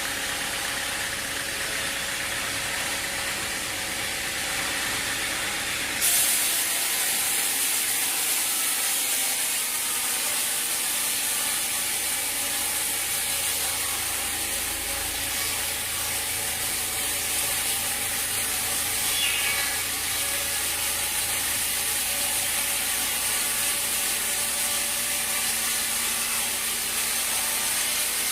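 Sawmill machinery running with a steady mechanical hum. About six seconds in, a loud high hiss starts suddenly and keeps on.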